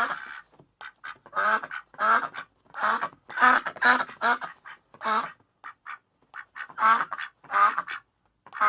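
Ducks quacking: a run of short, harsh quacks, about one or two a second, with a few shorter, fainter ones partway through.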